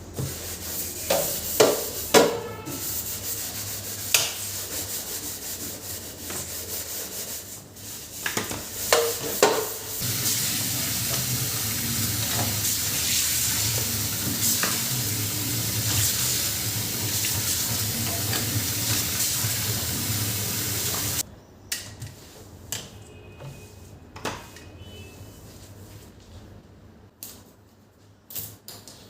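Food sizzling in a hot pan while being stirred, with a few sharp clanks of the spoon against the pan. The sizzle cuts off suddenly about two-thirds of the way through, and a few light knocks and clinks follow.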